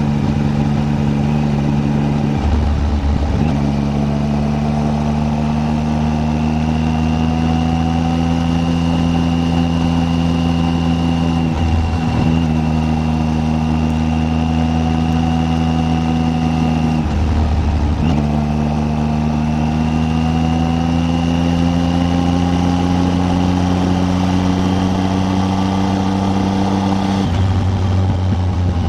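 Triumph Tiger 800's three-cylinder engine running under way, its note climbing slowly as the bike gathers speed, broken briefly about four times by gear changes or the throttle closing.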